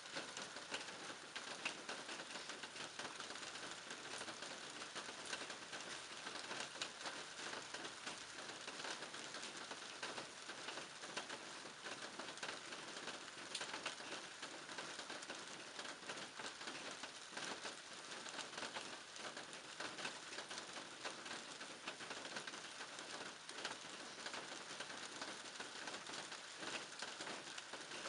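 Steady rain falling, a dense patter of countless drops striking surfaces, even in level throughout.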